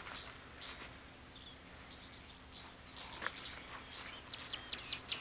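Birds chirping and calling in short, high sweeps, the calls coming faster as a rapid run of short chirps near the end.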